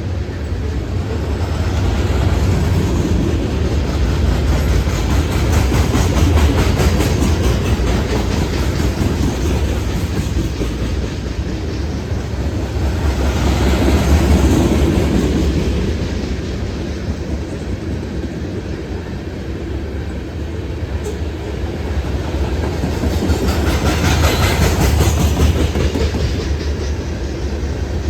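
A CSX freight train's cars, a local rock train, rolling past with a steady low rumble and wheels clicking over the rail joints. The noise swells and eases several times as the cars go by.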